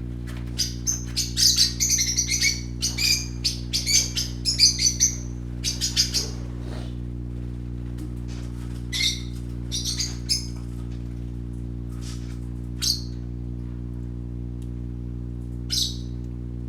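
Young budgerigars chirping, loud: a dense flurry of sharp, high chirps for about the first six seconds, then only a few scattered single calls, over a steady low hum.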